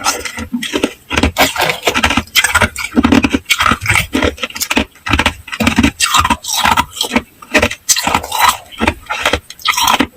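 Hard ice cubes being bitten and chewed up close: rapid runs of sharp crunching and cracking, in quick clusters with brief pauses between bites.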